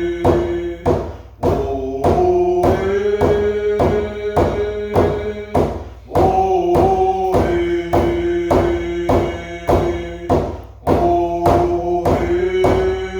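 A drum beaten in a steady beat, about two strokes a second, under singing with long held notes that step up and down in pitch: a ceremonial drum song.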